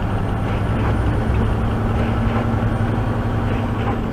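Steady engine drone and road noise heard inside a truck's cab while driving at an even speed, with a low hum throughout.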